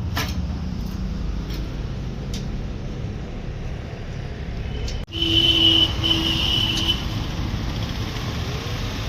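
Steady low rumble of a running vehicle engine. About five seconds in, after a cut, a steady high tone sounds three times in quick succession over it.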